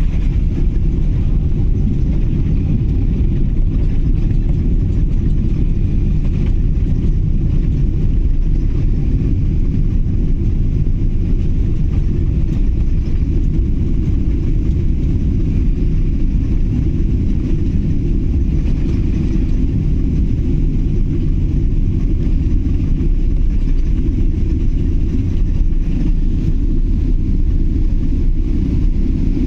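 Steady low rumble of a jet airliner's engines and airflow heard inside the cabin during the landing phase, with a faint high whine above it and no sudden changes.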